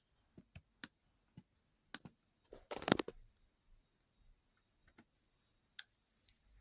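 Scattered faint clicks and ticks, with a short louder clatter about three seconds in.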